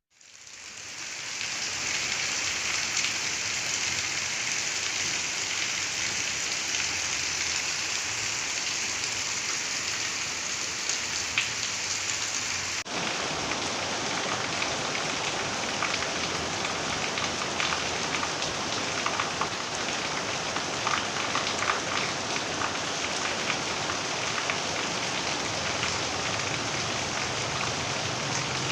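Steady rain falling, with scattered individual drops ticking. It fades in over the first couple of seconds, and about 13 s in there is a short break where the sound changes slightly.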